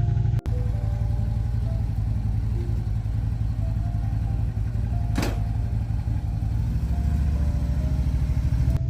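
Harley-Davidson motorcycle's V-twin engine running with a steady, rapid low pulse, under background music. There is one brief sharp noise about five seconds in.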